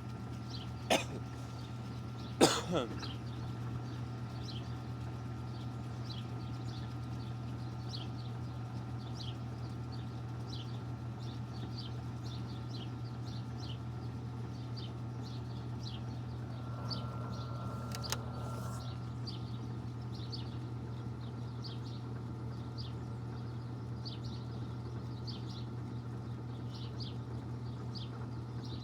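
Panasonic washing machine in its spin cycle: a steady low hum of the spinning drum, with sharp clicks about a second in and again shortly after. About two-thirds of the way through comes a brief whine ending in a click, as the machine switches its drain pump off and on again during the spin.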